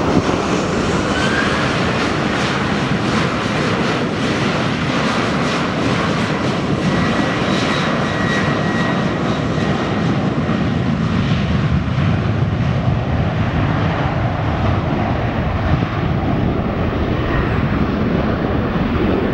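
Boeing 737's CFM56 turbofan engines running at takeoff power, a loud, steady jet noise with a faint high whine in the first half; the upper hiss gradually dulls in the second half.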